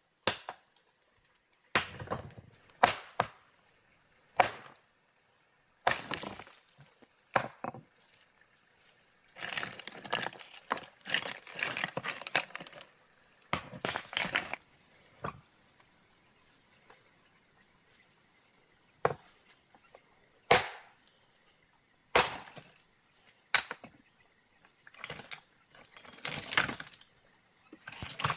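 Stones knocking and clattering against each other in irregular single blows, with several longer stretches of rattling, scraping rubble, typical of rocks being broken and laid into a stone embankment.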